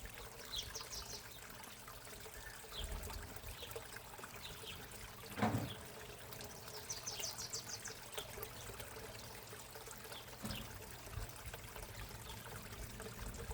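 Backyard pond water trickling steadily, with short high bird chirps now and then and a single short thump about halfway through.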